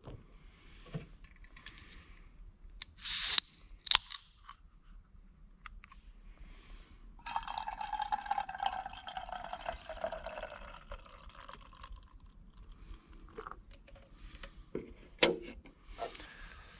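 Liquid being poured into a container for about five seconds, with a few sharp clatters and knocks of things being handled before and after.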